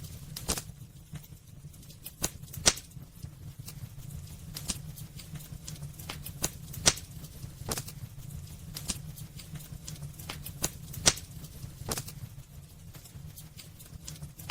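Wood fire burning in a fireplace: irregular crackles and sharp pops from the burning logs, a few much louder than the rest, over a steady low rumble.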